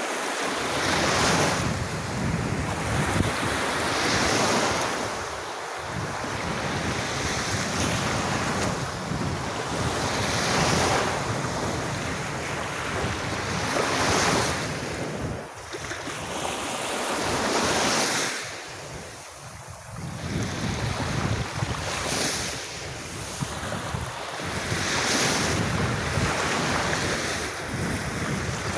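Sea waves breaking and washing up on a sandy beach, the surf swelling and easing every couple of seconds, with a dip around two-thirds of the way in. Wind rushes over the microphone throughout.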